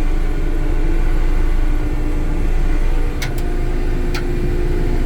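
Cat CS54B vibratory compactor's diesel engine running steadily, with a slight change in its tone about three seconds in and a few sharp clicks just after.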